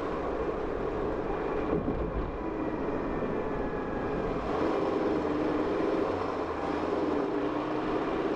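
Car running at low speed, a steady mix of engine and tyre noise. The deep rumble eases about halfway through.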